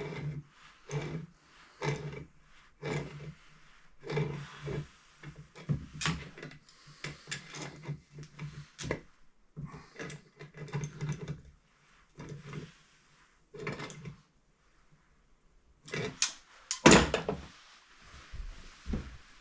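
Rhythmic back-and-forth scraping strokes of hand-tool work, about one a second, in a small room, stopping for a few seconds past the middle; a single loud knock follows near the end.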